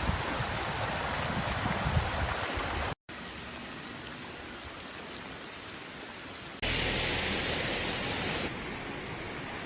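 Steady rushing-water noise of floodwater or downpour, heard in three or four short clips joined by hard cuts: a brief dropout about three seconds in, then a louder stretch for a couple of seconds near the end.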